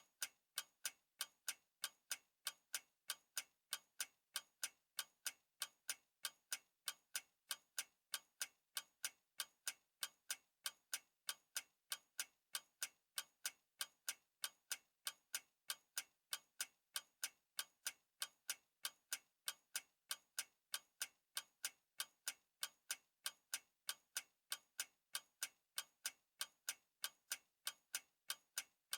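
Clock ticking steadily: sharp, evenly spaced ticks, a few each second, with no change in pace.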